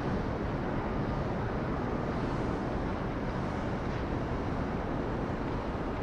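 Boeing 777-200 airliner's jet engines, a steady, even noise that holds its level without rising or falling.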